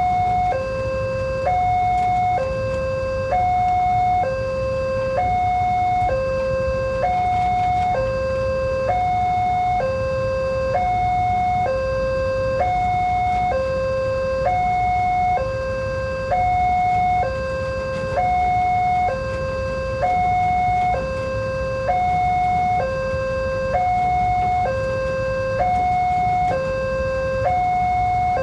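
Railway level-crossing warning alarm: an electronic two-tone signal alternating between a higher and a lower tone, each held about a second, repeating without a break, over a steady low rumble.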